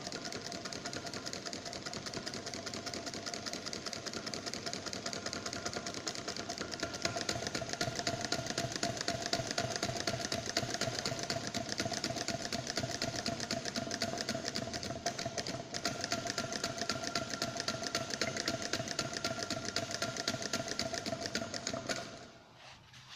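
Small homemade steam engine running with a fast, even clatter over a steady tone, stopping abruptly near the end.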